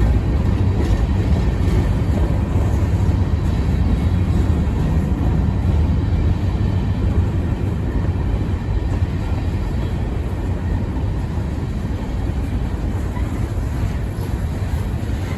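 Freight train rolling past on the track: a steady, loud low rumble of the cars on the rails, easing off slightly in the last few seconds.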